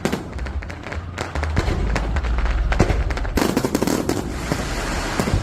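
Fireworks going off in a rapid run of bangs and crackles, growing denser about a second and a half in and thickest from about three and a half seconds in.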